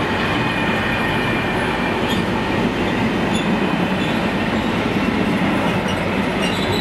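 A freight train of bogie sliding-wall box wagons rolling past at steady speed: continuous rumble and rattle of wheels on the rails, with a thin high squeal running over it.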